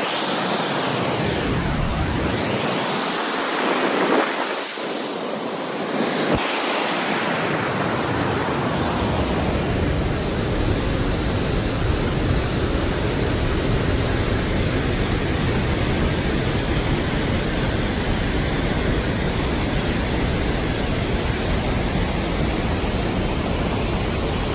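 Floodwater rushing through a dam's opened spill gates: a loud, steady rushing noise that becomes fuller and more even about eight seconds in.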